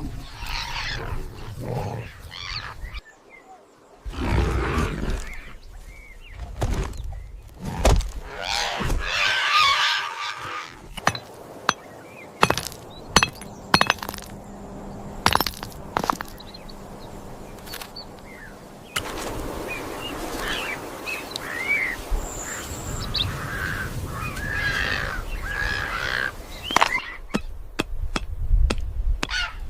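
Sharp cracks and snaps, clustered in the middle, with animal calls around them that turn to short bird-like chirps in the latter part.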